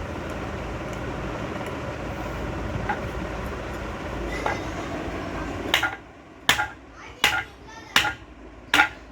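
Five sharp hammer blows, about one every three-quarters of a second, knocking on a ceiling fan's bearing to drive it out. They come over a steady background hum that drops away as the blows begin.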